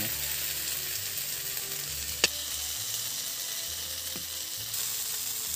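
Onion-tomato masala paste sizzling as it fries in oil in an iron kadai, stirred with a slotted spoon, cooked down until the oil separates. A single sharp click about two seconds in.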